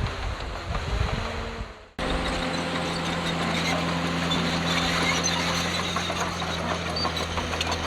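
Diesel engine of heavy earthmoving machinery running; the sound fades out about two seconds in, then cuts in again as a steady engine hum with scattered light clicks.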